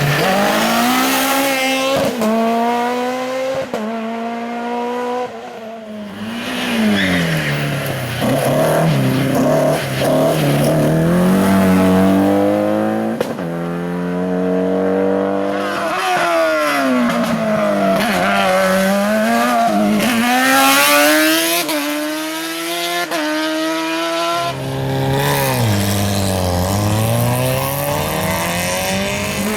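Race car engine driven hard through a slalom course, the revs climbing and dropping over and over as it accelerates, shifts gear and slows for the gates.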